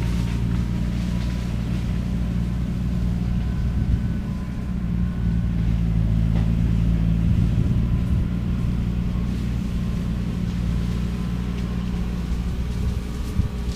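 Skid steer's engine and shredder head running steadily, a low, even engine note.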